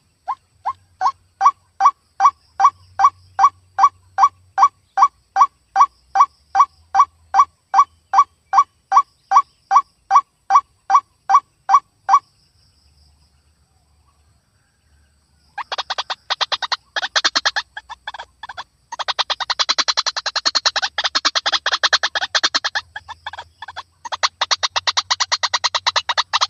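White-breasted waterhen (ruak-ruak) calling. A steady series of loud, evenly spaced notes comes about two and a half a second for some twelve seconds. After a short pause it turns into a dense, rapid, chattering chorus.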